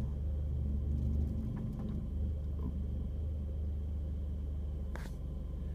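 Car engine running with a steady low drone, heard from inside the car. A brief sharp click comes about five seconds in.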